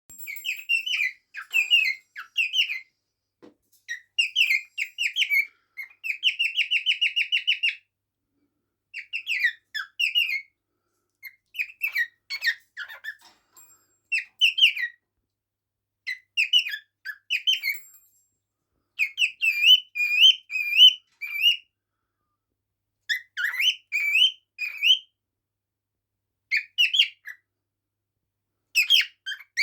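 Pet bird chirping and whistling in short bursts of quick, squeaky notes separated by pauses, with a fast, even trill about six seconds in.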